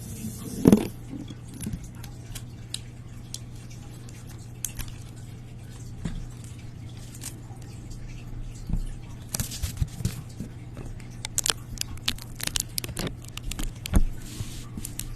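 ASMR trigger sounds close to the microphone: irregular tapping, clicking and scraping on objects, with one louder knock about a second in and a quicker run of clicks in the last third, over a steady low electrical hum.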